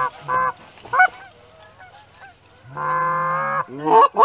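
Goose honking: a couple of short honks at the start, one long drawn-out honk about three seconds in, then a quick run of short clucking honks near the end.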